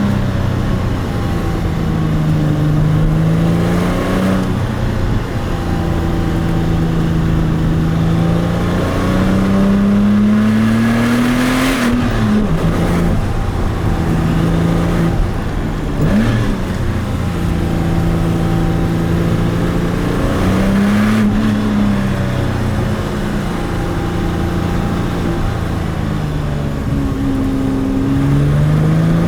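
Porsche 996 Turbo's twin-turbo flat-six under acceleration. Its pitch climbs through the revs and drops sharply at each gear change, several times over.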